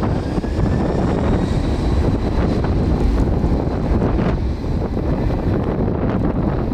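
Strong typhoon wind buffeting the camera microphone, a loud, uneven low rumble that flutters throughout. A faint high whine sits underneath it in the first few seconds.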